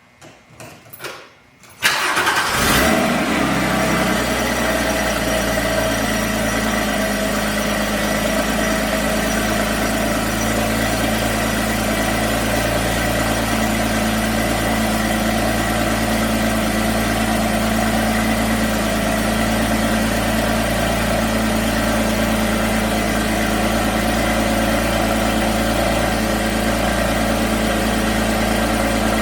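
A vehicle engine cold-started: a few faint clicks, then it fires and catches almost at once about two seconds in, flares briefly and settles into a steady idle.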